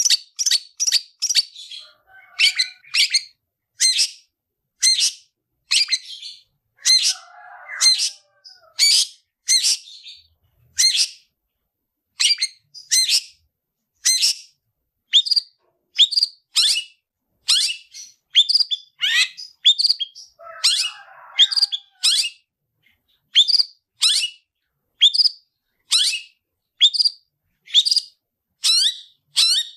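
Long-tailed shrike (cendet) in full fighting song: short, high calls repeated one to two a second without a break, with a softer, lower chatter twice.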